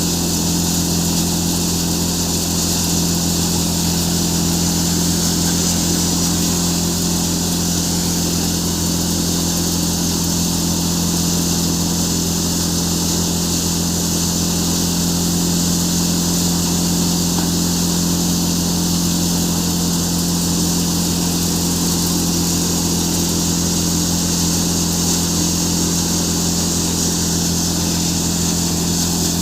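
Farmtrac tractor's diesel engine driving a threshing machine for chickpeas, running at a steady speed: a loud, unchanging drone with a low hum and a hiss of the thresher's drum and fan above it.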